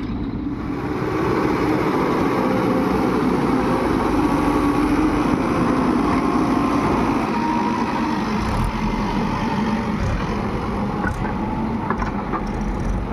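Diesel engines of a JCB backhoe loader and a tractor running steadily, getting louder about a second in.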